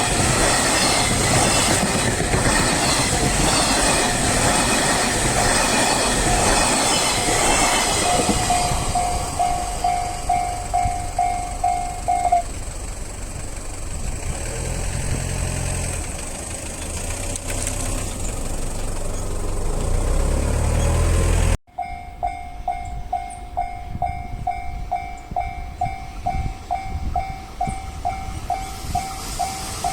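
A train passing close over a level crossing, its wheels clacking over the rail joints, while the crossing's warning bell rings in a steady repeating ding. The bell stops about twelve seconds in as the train clears, leaving a low rumble. After an abrupt cut the crossing bell is ringing again, about two to three dings a second.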